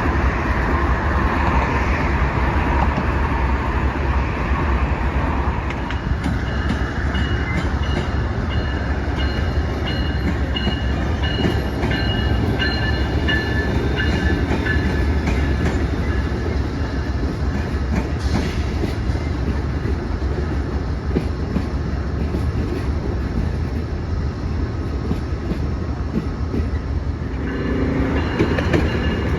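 Amtrak passenger train running past, its wheels rumbling and clattering on the rails, with thin high wheel squeals in the middle stretch. Near the end the sound changes as a different train takes over.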